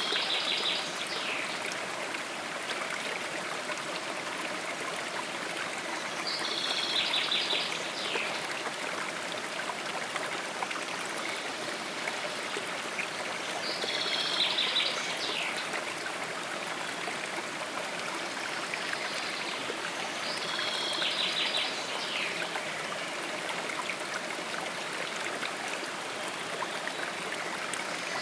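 A stream running steadily, with a bird singing the same short, trilled phrase roughly every seven seconds.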